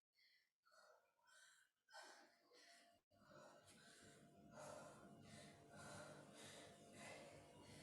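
Faint, repeated heavy breathing of a person exerting herself through a strength exercise.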